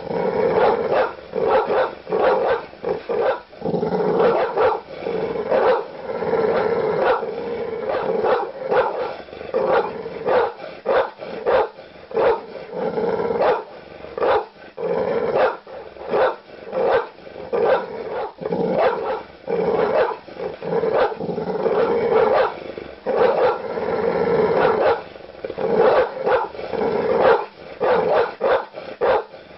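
Large dogs barking aggressively: deep, loud barks in rapid, overlapping succession, with growling between them.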